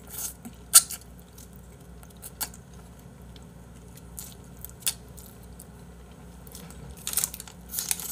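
A person chewing pieces of spicy braised chicken close to the microphone, with a few sharp clicks along the way. Near the end, a plastic bag crinkles in a cluster of crackly rustles.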